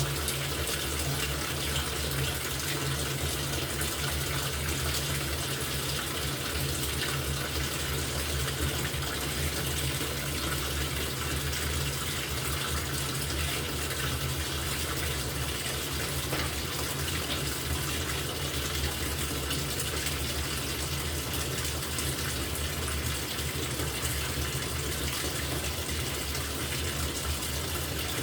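LG top-loading washing machine filling its tub with water: a steady rush of water with a low hum underneath.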